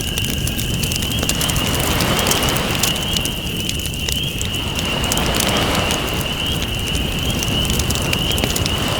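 Campfire crackling with frequent sharp pops over the wash of ocean waves, which ebbs a few seconds in and swells again. A thin, steady high tone sits under it.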